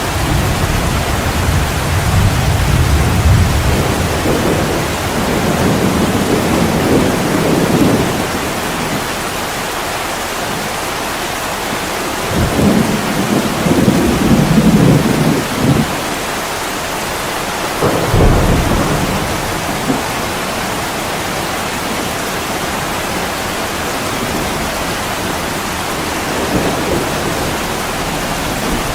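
Heavy rain pouring steadily on an attic window, with rolling thunder: long low rumbles through the first several seconds and again about twelve to sixteen seconds in, and a sharper clap about eighteen seconds in.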